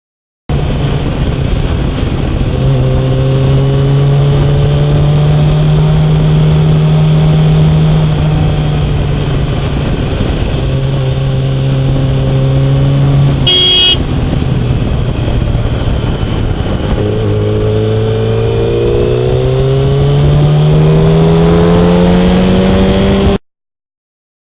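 Yamaha FZ1's inline-four engine running under way with heavy wind rush. Its pitch holds steady, eases off for a while, then climbs steadily near the end as the bike accelerates. A short high-pitched blast, like a horn, sounds once about two-thirds of the way through.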